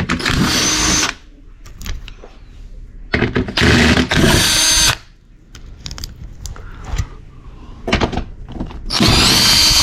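Cordless power tool spinning out the 12 mm bolts of an engine's lower dust shield. It runs in three bursts of about a second or more, each with a steady whine, and there is light clatter between the bursts.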